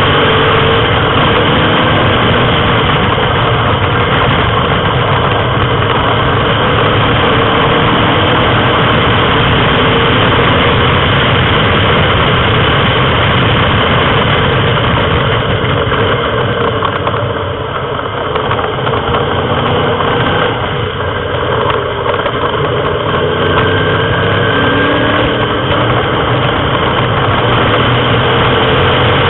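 Morgan sports car's engine running hard at racing speed, heard from on board. The engine note dips briefly twice a little past the middle, then picks up again.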